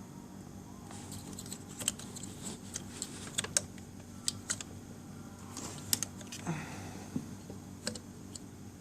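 Hand tools clicking and tapping against metal parts as a fastener on a scooter is worked loose: a dozen or so sharp, irregular clicks, over a faint steady hum.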